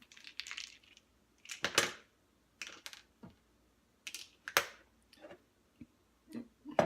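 Supplement bottles and tablets being handled: irregular sharp clicks, knocks and short rattles of caps and pills. The loudest come about two seconds in, halfway through and at the end.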